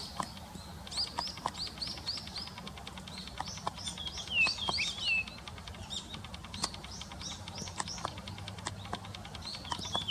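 Small songbirds calling: runs of short, quick, high chirps, several a second, in two bouts separated by a brief lull.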